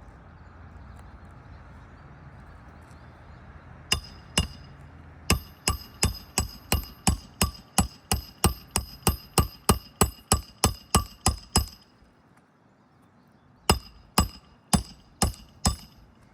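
Hammer driving a roofing nail through a shingle: two taps, then a quick even run of about twenty ringing metal strikes, about three a second, and after a short pause five more.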